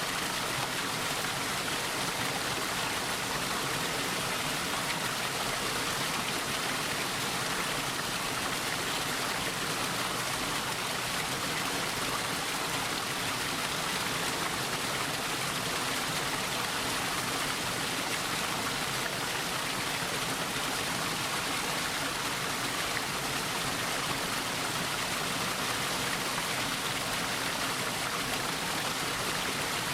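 Mountain stream flowing over rocks, a steady rushing of water with no change.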